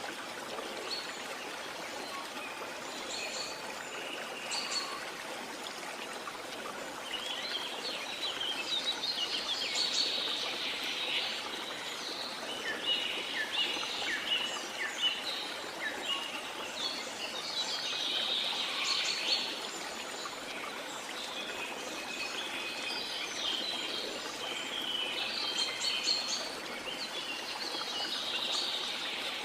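Rainforest ambience: many birds chirping and calling in repeated clusters over a steady rush of water.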